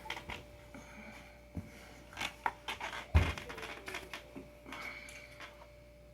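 Scattered light clicks and knocks of things being handled, with one loud, dull thud about three seconds in.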